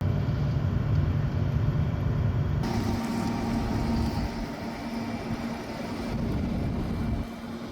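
Heavy harvest machinery engines running, in short cut-together shots: a deep engine rumble, then a steadier engine note with a hum after a cut about two and a half seconds in, dropping quieter near the end.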